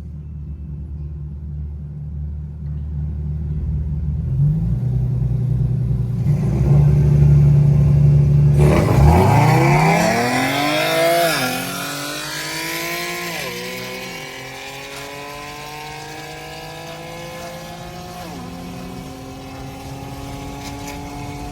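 Straight-piped Infiniti G37's VQ V6 exhaust running low and building to a loud drone, then accelerating hard: the pitch climbs and drops sharply at each upshift, three shifts in all, and the sound gets quieter after the first shift.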